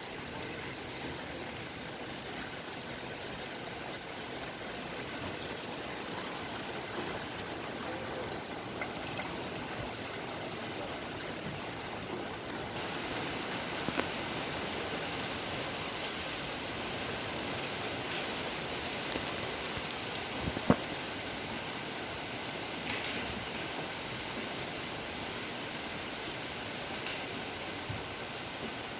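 Steady rain falling, a little heavier from just before the middle, with a few sharp clicks.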